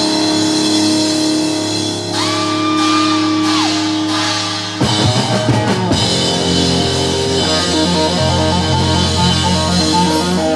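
Live rock band playing an instrumental passage: electric guitar over bass and drum kit. A note bends up and is held for over a second about two seconds in, and quick guitar runs fill the second half.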